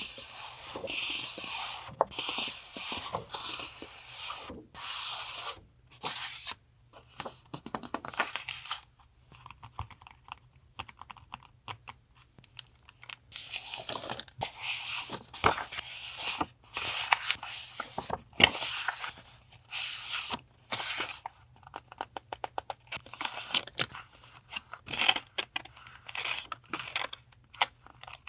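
Paper and plastic packaging rustling and crinkling in irregular bursts as stationery items are handled and unpacked, with small taps and clicks between them. The rustling pauses briefly around the middle and again later.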